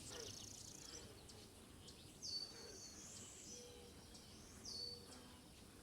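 Faint woodland birdsong: a quick high trill at the start, then two short high phrases about two and a half seconds apart, each sliding down and holding a level note.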